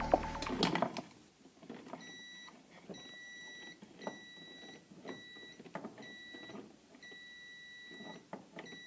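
Electronic beeper sounding a series of short, steady, high beeps of uneven length, with light clicks between them.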